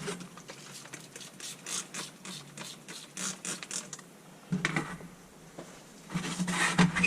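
Irregular clicks, scrapes and light rattles of an old Coleman lantern's metal parts being handled and cleaned, with a denser clatter near the end, over a low steady hum.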